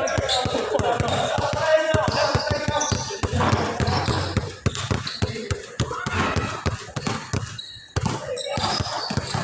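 Basketballs bouncing on a court, many irregular bounces overlapping, with people talking in the background, most clearly in the first two seconds.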